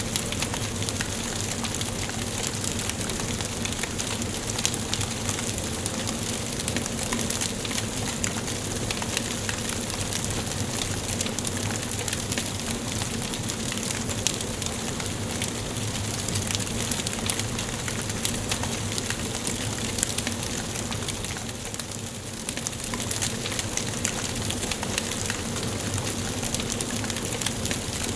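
Wood fire burning in a fireplace: a steady hiss of flames with many small, quick crackles and pops from the burning logs.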